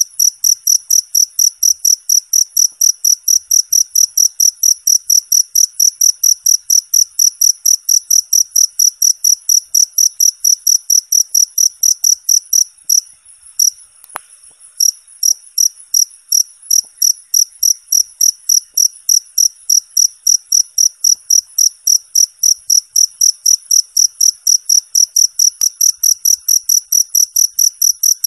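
Cricket chirping steadily, a high, clear chirp repeated about three times a second, with a brief pause and a single click about halfway through.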